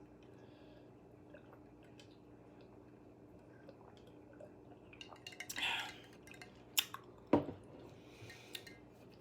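Quiet handling sounds of a fast-food meal: a brief rustle about halfway through, two sharp clicks or taps a little later and another soft rustle, over a faint steady hum.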